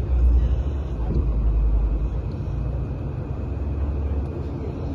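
A big-turbo BMW M340i driving past, its engine and exhaust making a low rumble that is loudest in the first couple of seconds and eases near the end.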